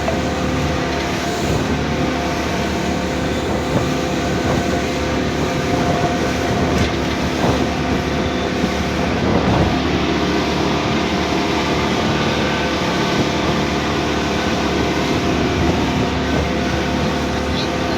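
Boat engine running steadily under way, a constant droning hum over a noisy rush.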